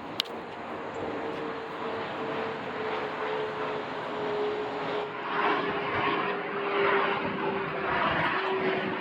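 Airplane flying over: a steady engine whine that sinks slowly in pitch, with a rushing noise that grows louder about halfway through.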